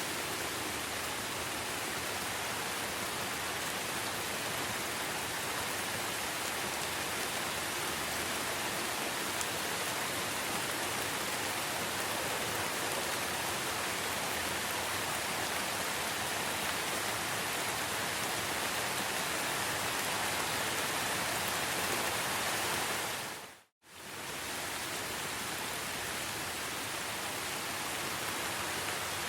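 Steady rain, an even dense hiss. About two-thirds of the way through it fades out briefly to silence and straight back in, like a splice between recordings.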